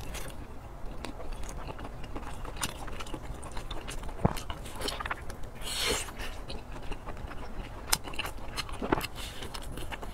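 Close-miked eating: biting into and chewing soft, fatty braised pork belly, with scattered wet mouth clicks and smacks and a short breathy slurp about six seconds in.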